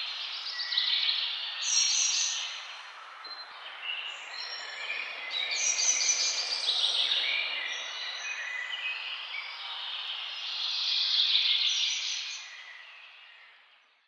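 Birds chirping, with many short calls overlapping one another; the sound fades out over the last couple of seconds.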